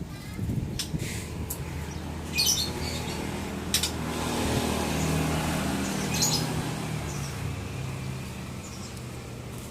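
A few short, high bird chirps over the steady hum of a motor vehicle that grows louder in the middle and fades again.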